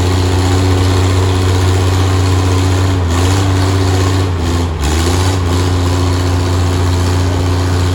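Antique tractor engine running steadily and loud, its pitch dipping briefly twice about three and five seconds in.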